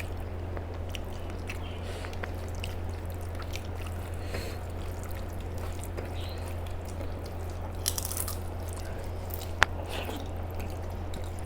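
Quiet eating sounds at a plate of rice and dal: soft wet squishing and small clicks over a steady low hum. A short rustle comes about eight seconds in, and a sharp click soon after.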